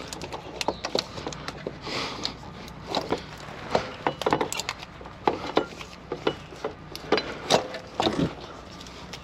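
Hand tools at work on metal: irregular sharp clicks and knocks, several a second at times.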